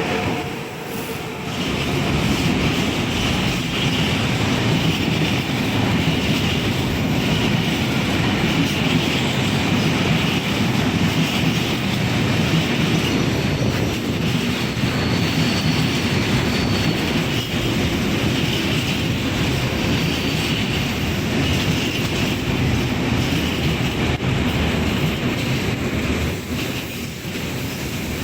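A train rolling past at speed: steady rumble of wagons with the clickety-clack of wheels over rail joints and a faint high wheel squeal partway through. It rises about two seconds in and eases off near the end.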